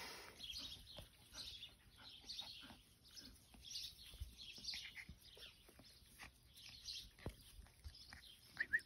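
Faint birds chirping over and over, with a few short, sharp rising squeaks near the end.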